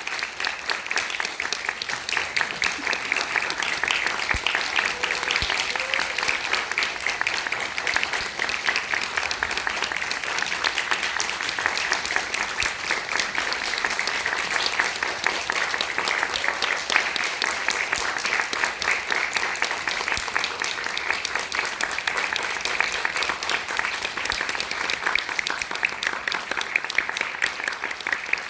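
Theatre audience applauding: a dense, steady clatter of many hands clapping that keeps going without a break.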